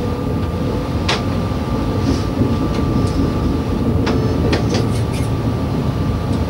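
Y2 diesel multiple unit running slowly, a steady rumble with a faint whine, and its wheels knocking sharply over the points and rail joints, once about a second in and in a quick cluster around four to five seconds in.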